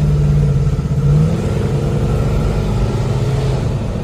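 1973 Ford Torino's 351 Cleveland V8, fitted with Holley Sniper EFI, running under throttle while driving. The note climbs slightly up to about a second in, then eases off. The engine is breaking up and stumbling, which the owner puts down to it going lean.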